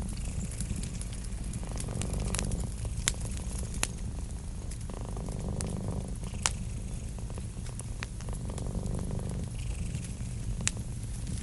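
Cat purring, a steady low rumble that swells every few seconds with each breath. A wood fire crackles over it with sharp, scattered pops.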